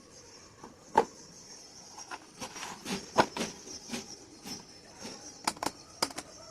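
Irregular clicks and light knocks of tools and table fan parts being handled. There is a sharp knock about a second in and a quick cluster of clicks near the end.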